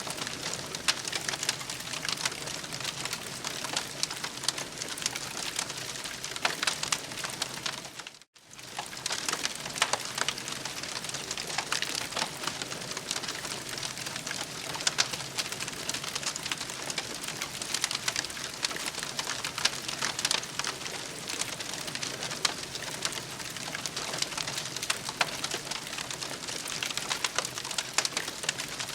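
Campfire crackling, a dense steady run of small pops and snaps over a soft hiss, with a brief drop-out about eight seconds in.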